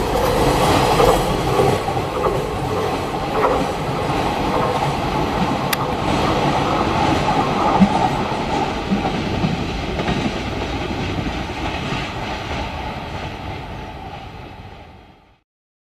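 Container wagons of a JR Freight train rolling past, wheels clacking over the rail joints, with a sharp click about six seconds in. The noise fades away and cuts off about fifteen seconds in.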